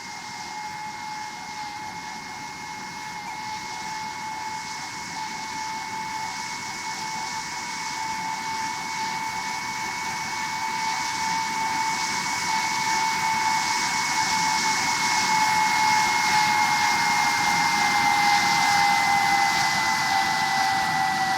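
Jet airliner's turbofan engines whining with a steady high tone over a hiss, growing louder as the aircraft comes closer, then dropping slightly in pitch near the end as it passes.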